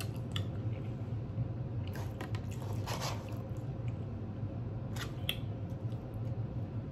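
Close-miked chewing of food, with a few short moist clicks and crunches over a steady low hum.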